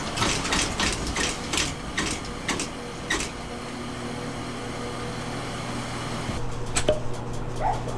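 Fan heater switched on and running with a steady mechanical hum, with a series of sharp clicks over the first three seconds and a couple more near the end.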